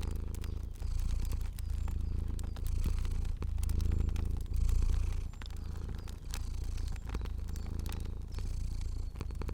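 Cat purring steadily in slow pulses about once a second, with small sharp crackles of a fire scattered over it.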